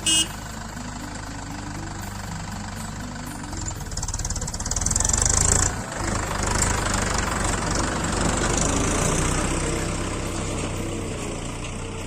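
Mahindra 415 DI SP Plus tractor's diesel engine running steadily, with a short sharp knock right at the start. The engine grows louder from about four seconds in, drops briefly near six seconds, then runs louder again before easing off toward the end.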